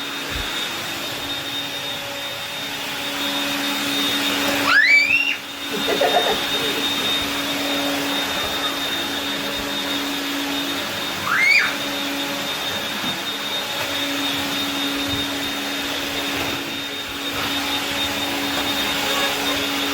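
Cordless stick vacuum running on a retrofitted brushless motor, a steady rushing whir with a constant high whine. Two short rising squeals cut in, about five seconds in and again near the middle.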